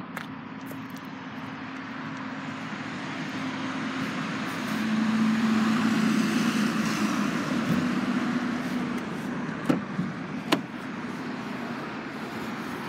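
A motor vehicle passing, a steady hum that swells to its loudest midway and then fades, with two sharp clicks near the end.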